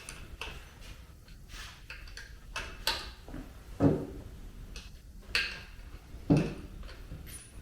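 Scattered clinks and knocks of hand tools and sockets being handled, with two louder knocks about four and six seconds in.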